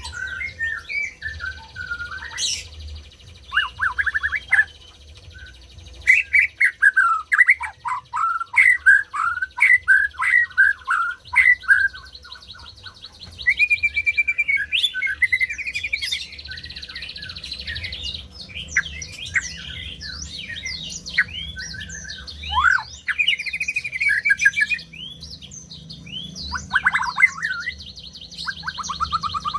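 White-rumped shama singing a long, varied song of whistled phrases, rapid chirps and down-sweeping notes, delivered in bursts with short pauses.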